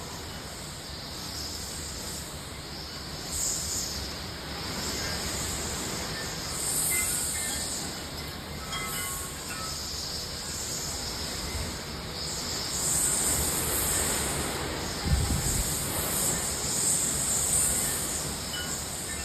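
Hurricane wind gusting with a hissing rush of rain, a noisy roar that swells and eases, with a low thump about 15 seconds in.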